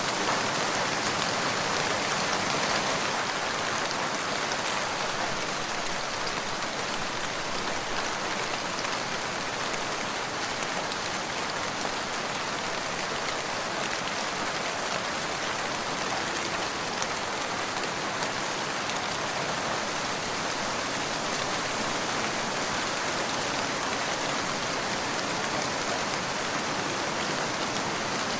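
Steady rain falling, an even hiss with fine drops pattering on a surface.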